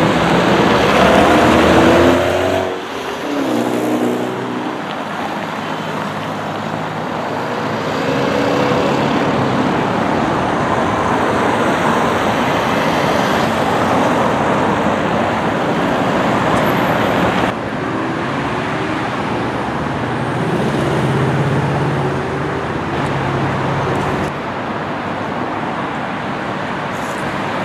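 Steady road traffic noise from cars passing on a busy street, changing abruptly a few times.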